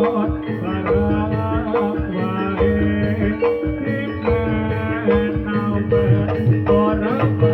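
Javanese gamelan music accompanying a jathilan barong dance, amplified through a sound system: bronze metallophones struck in a quick, repeating pattern of ringing notes over steady low tones and drum strokes.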